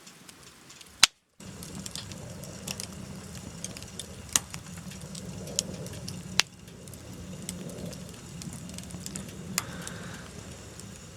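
Wood fire burning with a steady low rush and scattered sharp crackles and pops every second or two.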